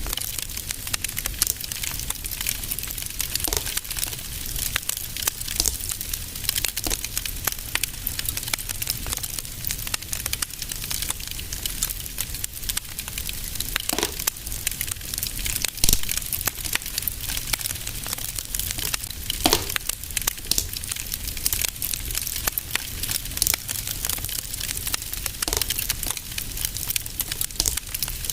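Fireplace fire crackling steadily, with many small snaps and a few louder pops, over a low steady rumble.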